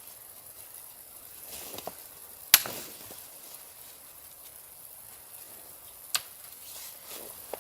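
Two sharp knocks about three and a half seconds apart, the first the louder, over a faint steady hiss.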